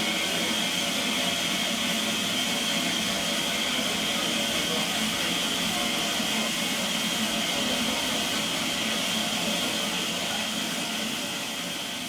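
Steady hiss of escaping steam from the Ivatt Class 2 2-6-2T tank locomotive, easing off slightly near the end.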